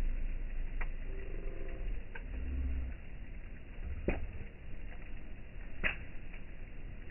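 Campfire burning, with a handful of sharp pops, about four, over a low steady rumble.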